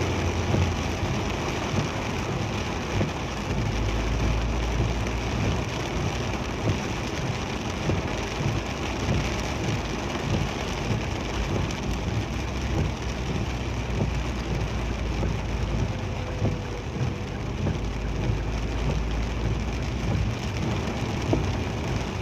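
Heavy rain pelting a moving vehicle, a dense steady patter, over a low rumble of engine and road noise that swells twice.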